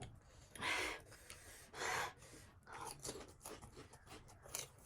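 Close mouth sounds of panipuri being crunched and chewed, with two short noisy bursts about one and two seconds in and fainter ones after.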